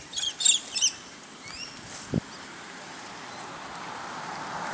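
Birds chirping: a quick run of high chirps in the first second and another call a little later. A rushing noise builds toward the end.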